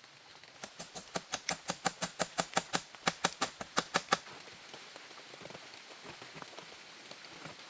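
A quick, even series of about twenty sharp knocks, five or six a second, lasting about three and a half seconds and stopping suddenly.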